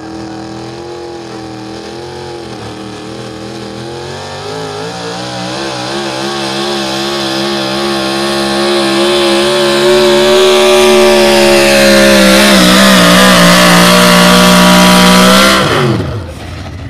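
Modified four-wheel-drive pulling truck's engine running at high revs under load during a pull, growing steadily louder, then the revs drop away sharply near the end.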